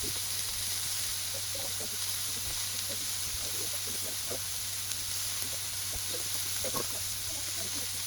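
Moose burger patties sizzling on a hot oiled griddle: a steady frying hiss with small scattered crackles and pops as the crust forms.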